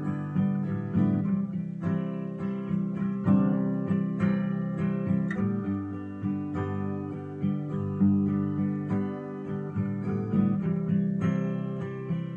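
Acoustic guitar strummed in a steady rhythm, an instrumental passage between the sung verses.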